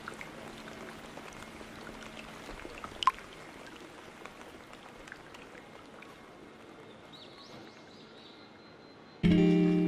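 Steady rain falling, with one sharp drip or click about three seconds in. Acoustic guitar music comes in near the end.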